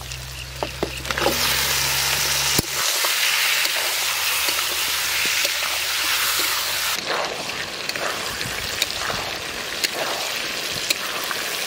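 Raw chicken legs, feet and stomachs sizzling loudly as they hit hot oil and masala in a wok and are stirred. About seven seconds in the sizzle drops to a quieter, crackling fry as the chicken cooks in the gravy.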